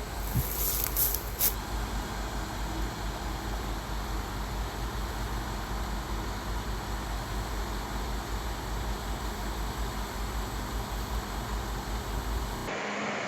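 Steady vehicle rumble and road noise, with a few short high hisses in the first second and a half; the low rumble drops away abruptly near the end.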